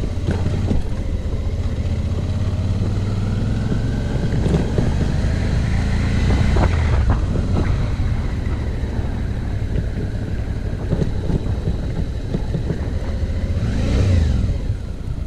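Suzuki V-Strom's V-twin engine running as the motorcycle rides a rough dirt road, its pitch rising and falling with the throttle, with scattered knocks from bumps.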